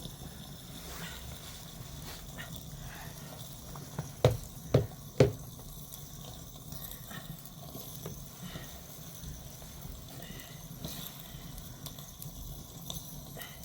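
Three sharp knocks in quick succession, about half a second apart, over a low steady background.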